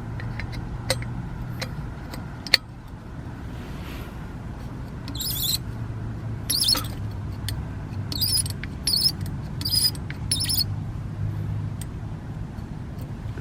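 Work on a Phoebus 725 pressure stove: light clicks and clinks of small metal parts, then a run of short hissy strokes, about two a second, over a steady low hum.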